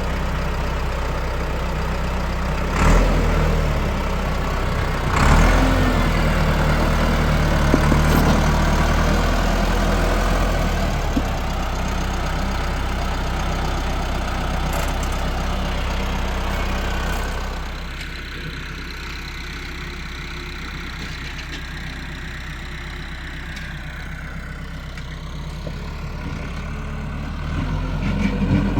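Tractor engine running steadily, with two knocks about three and five seconds in. It gets quieter about two-thirds of the way through and picks up again near the end.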